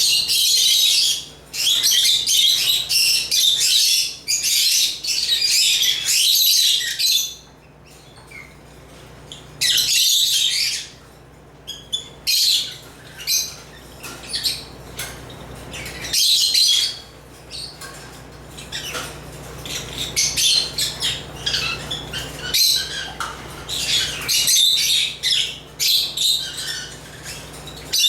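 African lovebirds chattering in shrill, squawking bursts, almost continuous for the first seven seconds, then pausing and coming back in shorter bouts through the rest.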